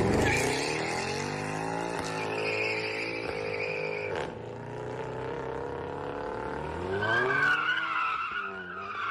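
A car engine revving, its pitch falling and then climbing again near the end, with tires squealing now and then.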